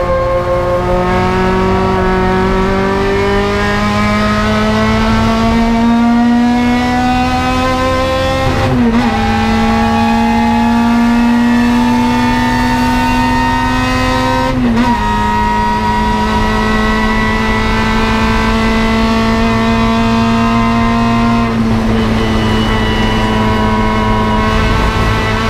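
Toyota KE70 Corolla's 4A-GE four-cylinder race engine under full throttle, heard from inside the car's cabin: revs climb steadily, with two quick upshifts about nine and fifteen seconds in, then the engine holds nearly steady revs.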